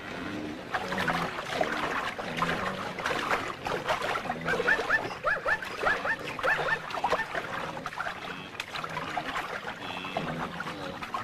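Animal calls: a rapid run of short, high yelps and squeals amid scuffling noise, densest about four to seven seconds in.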